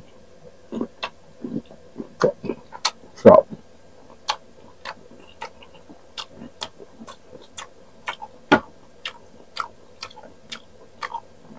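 Close-miked chewing of crisp unripe green mango: sharp crunches and wet mouth clicks, about two a second, the loudest about three seconds in.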